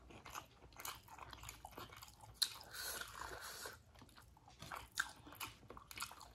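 Close-up mouth sounds of someone chewing steamed momo dumplings: a run of wet smacks and small clicks, with one sharper bite-click about two and a half seconds in.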